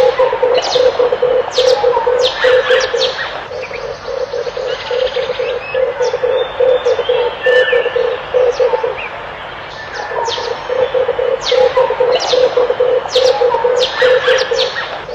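Red turtle dove cooing: a fast, even run of low coos that breaks off for about a second two thirds of the way through and then resumes. Other small birds give sharp, quick chirps over it.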